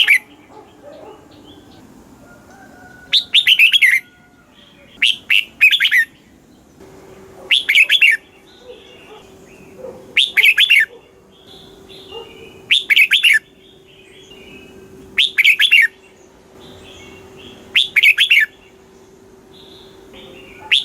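Red-whiskered bulbul singing: a string of short, loud, warbling phrases, each under a second and repeated about every two and a half seconds, with softer chirps between them. A faint steady low hum runs under the song from about a third of the way in.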